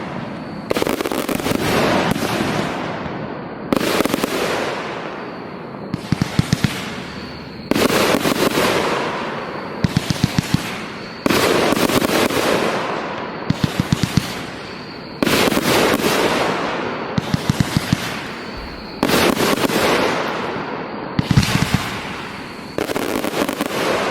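Fireworks going off in a steady cycle: about every four seconds a sudden burst fades away as a hiss, then a quick string of sharp pops follows.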